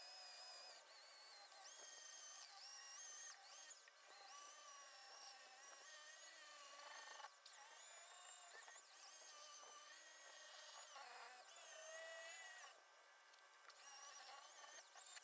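Faint whine of a corded variable-speed drill spinning a sanding pad against a stainless steel exhaust pipe, its pitch wavering as speed and pressure change, with short breaks and a pause about 13 seconds in.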